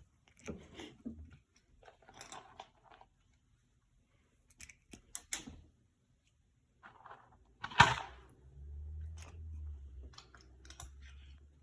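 Cat crunching and chewing dry treats: irregular crisp crunches with short pauses between them, the loudest about 8 s in.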